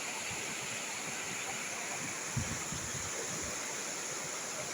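Stream water running with a steady rush, and a brief low thump about halfway through.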